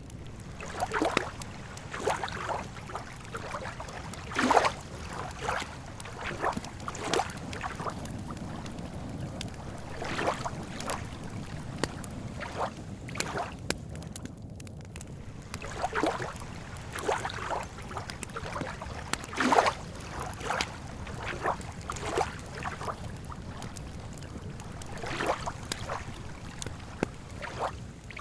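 Lake water lapping and sloshing at the shore in irregular small splashes every second or two, over a steady low rumble.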